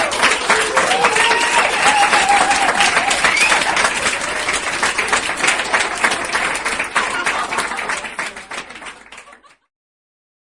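A crowd applauding, with a few voices calling out over the clapping in the first few seconds. The applause fades and then cuts off about nine and a half seconds in.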